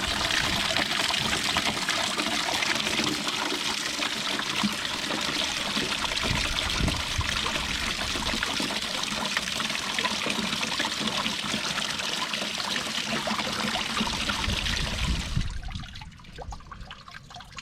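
Water draining steadily out of an Atwood RV water heater's drain-plug opening and splashing into a container, as the tank empties with its pressure relief valve open. About fifteen seconds in the flow drops off sharply to a faint trickle.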